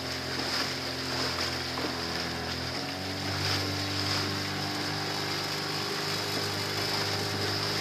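A motorboat's engine running steadily with a low hum that shifts slightly in pitch about three seconds in, over the wash of water and wind.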